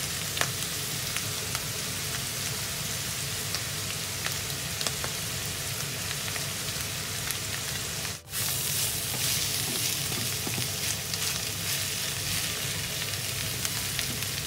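Bamboo shoots, minced meat and frozen Thai basil sizzling in a hot frying pan while being stirred with a wooden spatula. Light clicks and scrapes of the spatula on the pan come through the steady hiss. The sound cuts out for an instant about eight seconds in.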